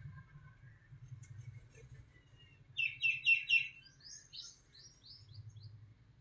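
A small bird singing: a burst of four quick, loud repeated notes about three seconds in, followed by a run of about six thinner, higher notes, each falling in pitch.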